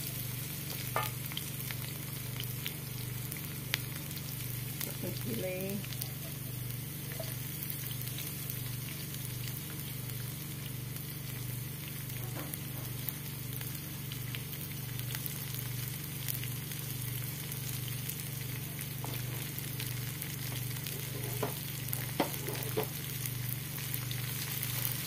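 Sliced shallots, garlic, onion, ginger and chilies sizzling steadily in hot oil in a stone-coated wok, with a wooden spatula now and then scraping and tapping the pan. A steady low hum runs underneath.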